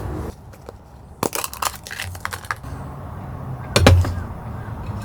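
Food-prep handling noises: a run of small clicks and cracks, then a heavier knock just before four seconds in, over a steady low rumble.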